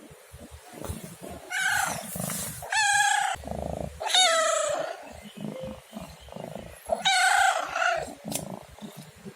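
Domestic cat meowing four times, each meow a short pitched call, the third one sliding down in pitch.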